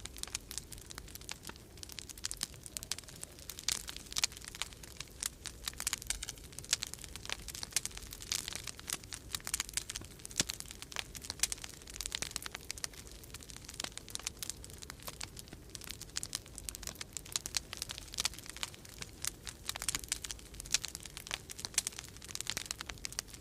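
Wood fire crackling in a fireplace: dense, irregular pops and snaps, over a low steady rumble of winter storm wind.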